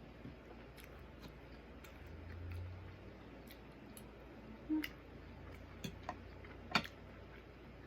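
Mouth and eating noises from someone eating barbecue ribs close to the microphone: a handful of sharp clicks about a second apart, the loudest near the end.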